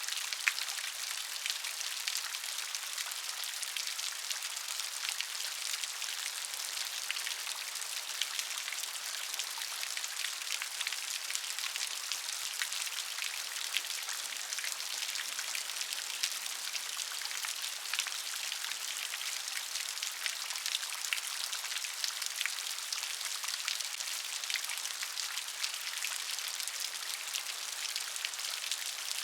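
Steady rain: an even hiss of falling rain with many small, sharp drop hits scattered through it, unchanging throughout.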